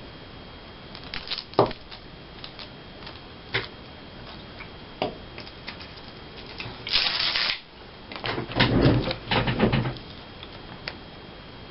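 Paper and craft materials being handled on a tabletop: scattered light taps and clicks, a short rustle of paper about seven seconds in, then a longer bout of rustling and bumping.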